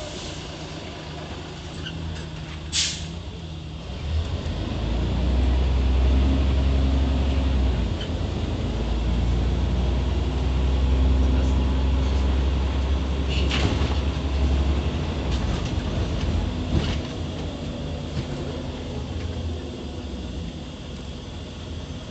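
Scania OmniCity city bus engine idling, a short sharp hiss of released brake air about three seconds in, then the engine pulling hard as the bus accelerates for about ten seconds before easing off, with two more brief air hisses.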